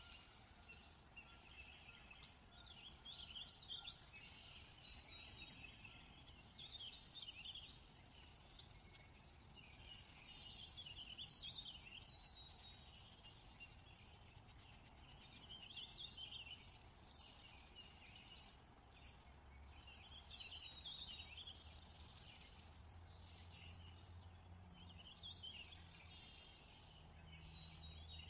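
Faint chorus of songbirds chirping and twittering throughout, with a few louder, sharper calls in the second half and a faint low hum near the end.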